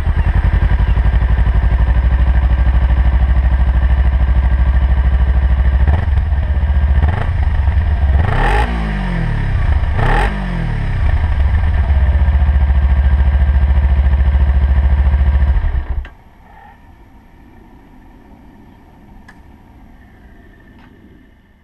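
Kawasaki Ninja 300's parallel-twin engine running through its stock exhaust, idling steadily just after starting, with four quick throttle blips that fall back to idle. About three-quarters of the way through it is switched off and stops abruptly.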